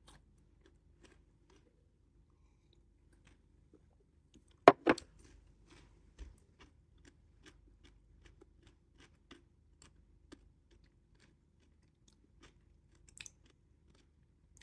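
Quiet chewing close to the microphone: soft, regular mouth clicks as a person eats a meal, with a sharper double click about five seconds in.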